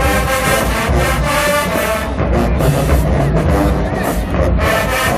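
Loud HBCU marching band playing, with brass horns over a heavy drum line and low brass.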